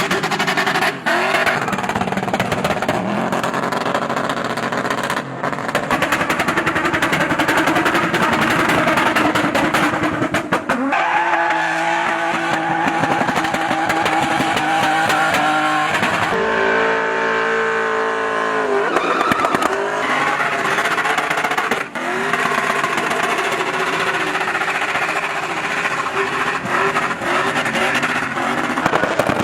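A 4x4's engine revving hard, its pitch rising and falling again and again, with tyre squeal.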